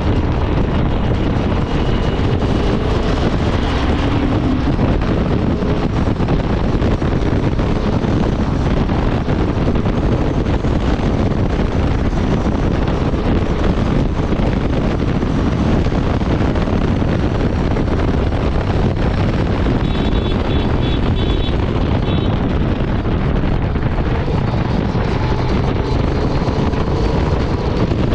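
Honda Transalp 750's parallel-twin engine running at highway speed, largely buried under heavy wind rushing over the microphone.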